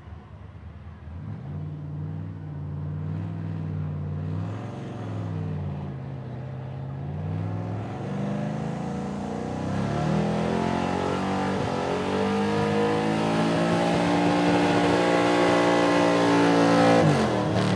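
Pulling truck's engine working hard under load as it drags the weight sled, revving with its pitch climbing and dipping and growing louder, then dropping off sharply near the end as the throttle is let off.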